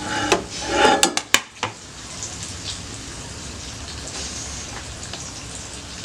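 Several sharp clicks and clinks of dish or utensil handling in the first second and a half, then a steady sizzle of oil under sardines just cooked on high power in a microwave.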